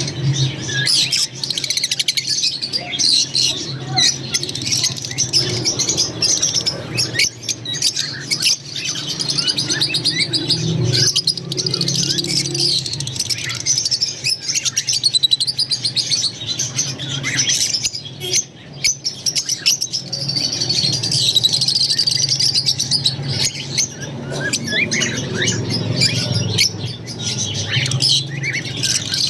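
A flock of green Fischer's lovebirds chattering and chirping without pause, with many overlapping high twitters. A steady low hum runs underneath.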